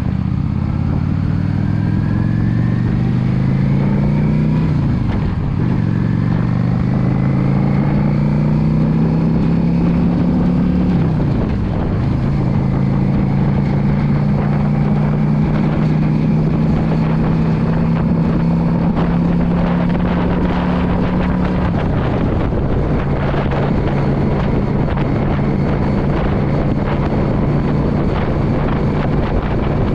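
Yamaha V Star 650 cruiser's V-twin engine pulling up through the gears, its pitch rising twice with a brief dip at each of two upshifts, then holding steady at cruising speed; about two-thirds of the way through the revs drop to a lower steady note. Wind buffets the microphone throughout, growing stronger later on.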